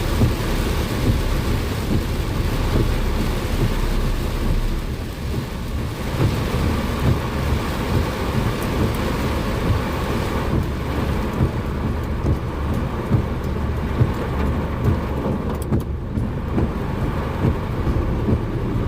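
Heavy rain pelting a moving car, a dense rumbling patter mixed with road noise. The higher hiss of the rain thins a little past halfway.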